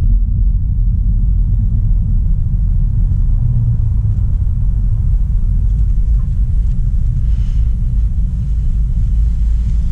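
Steady low rumble of a 2016 Audi A3 Sportback 1.4 TFSI being driven, from its turbocharged four-cylinder petrol engine and the tyres on the road.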